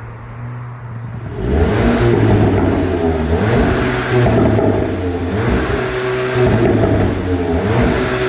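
Volkswagen Golf GTI TCR's turbocharged 2.0-litre four-cylinder engine running at a steady low tone, then about a second and a half in getting much louder as it is revved or accelerated, its pitch rising and falling several times.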